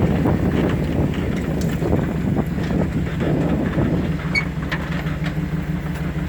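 Two-wheel-drive Chevy's engine running steadily under load as it drives over rough, slippery off-road ground, with rough rumbling and scattered knocks and rattles from the bumpy ride.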